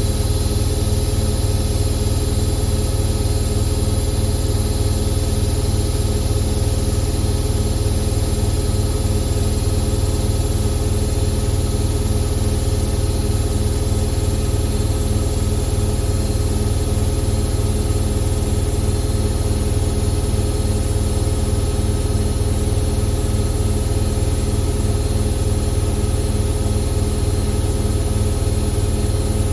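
Indesit IWC6165 washing machine running steadily, with a deep hum and vibration and a quick regular pulsing in the hum.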